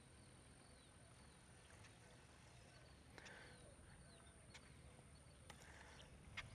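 Near silence: faint outdoor ambience with a few faint chirps and scattered light clicks.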